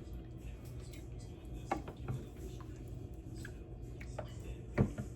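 Light, scattered clicks and knocks of a utensil against a pot and bowl as soup is dished up, with one louder knock near the end.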